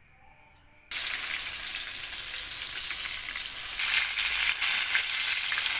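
Stuffed tofu frying in hot oil: a sizzle starts suddenly about a second in and grows louder about four seconds in.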